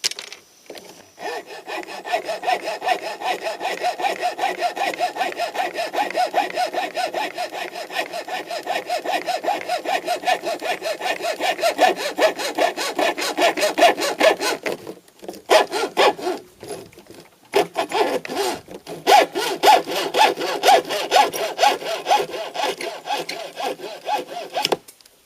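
Hacksaw cutting through a graphite fishing rod, in steady back-and-forth strokes about three a second. It breaks off briefly about two-thirds through, then saws on and stops near the end.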